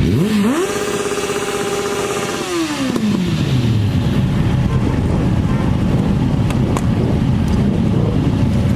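Car engine revving: it climbs sharply, holds at high revs for about two seconds, then winds down, over a steady low engine rumble.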